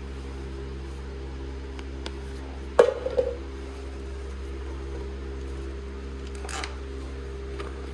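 A steady mechanical hum with a single sharp metallic clank about three seconds in that rings briefly, and a fainter click near the end.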